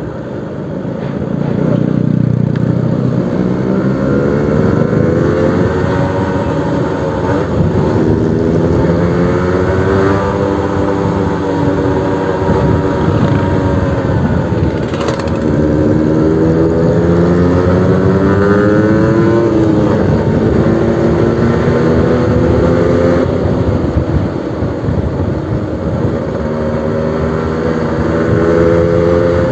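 Suzuki RC100 motorcycle's single-cylinder two-stroke engine running through a new exhaust, its pitch rising and falling again and again as the throttle is opened and eased off.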